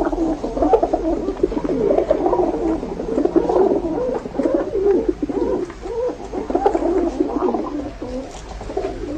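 Many pigeons cooing at once, their overlapping low, wavering coos running on continuously.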